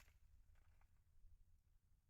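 Near silence: faint room tone with a low rumble and a couple of faint ticks.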